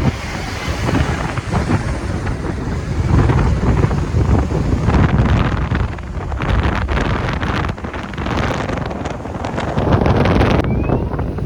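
Wind buffeting the microphone on a moving motorcycle, with gusty rumbling and the bike's running and road noise beneath it.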